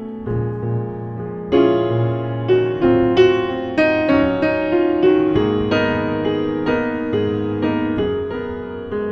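Solo jazz piano playing a ballad: chords and a melody line struck every half second or so and left to ring, with no voice.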